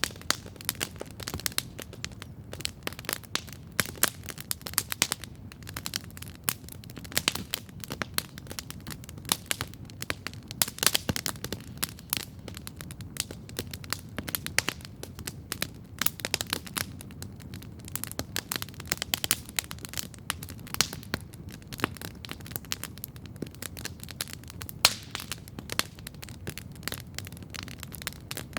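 Wood campfire crackling steadily: dense, irregular sharp pops and snaps, several a second, over a low steady rumble.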